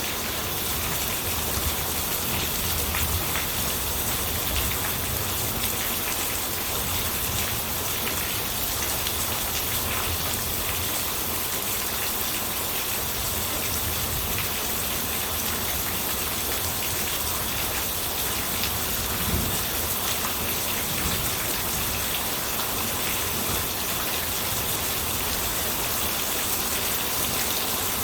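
Steady rain falling and pattering on surfaces, an even hiss with scattered drop ticks and a brief low thump a little past two-thirds of the way through.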